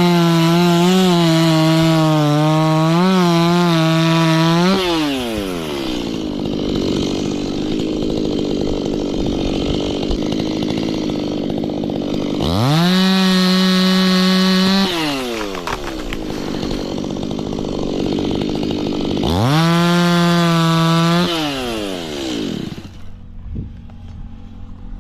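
Stihl two-stroke chainsaw running at full throttle, with slight dips in pitch as it cuts, dropping back to idle about five seconds in. It is revved up twice more for about two seconds each and falls back to idle each time. Its sound drops away near the end.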